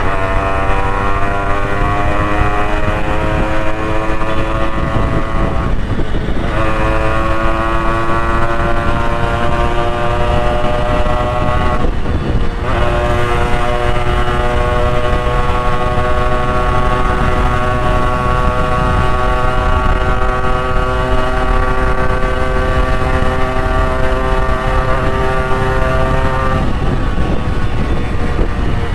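Yamaha RX100's two-stroke single-cylinder engine pulling steadily along the road. Its note climbs slowly in each gear, with brief breaks about six and twelve seconds in and again near the end, where the pitch drops as the rider shifts up.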